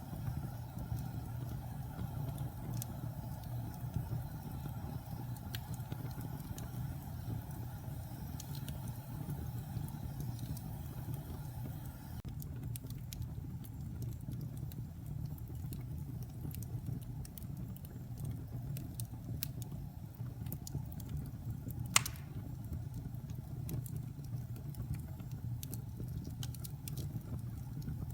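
Wood fire burning in a fireplace: a steady low rush of flame with small scattered crackles of the burning wood, and one sharp pop about twenty-two seconds in.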